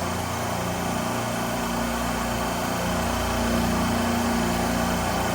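Steady mechanical hum of running refrigeration machinery, with a constant low drone that holds its pitch and level.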